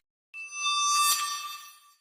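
Dragon Ball anime sound effect: a shimmering, chime-like ringing of several steady high tones that swells up, peaks about a second in and fades away.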